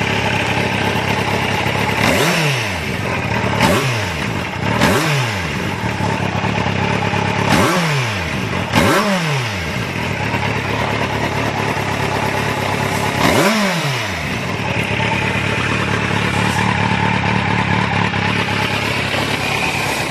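Kawasaki Z800's inline-four engine idling, blipped about six times with quick throttle revs that drop straight back to idle.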